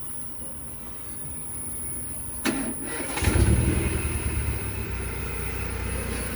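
Mercedes-Benz A160 engine starting: quiet, then a sharp click about two and a half seconds in, a brief crank, and the engine catches with a surge and settles into a steady idle.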